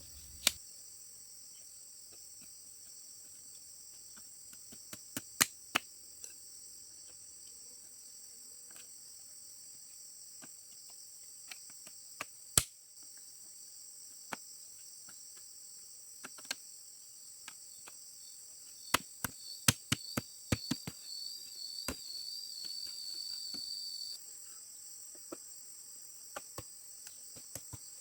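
Steady high-pitched chorus of crickets or similar insects, with sharp knocks now and then: single knocks and a quick run of them about twenty seconds in. A warbling high call joins for about five seconds near the end.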